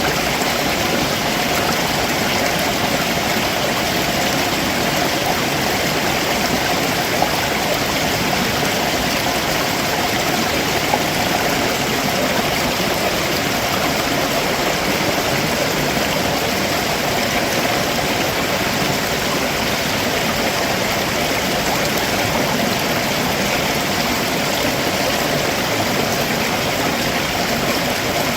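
Stream water running over rocks below a waterfall, a steady rushing and gurgling.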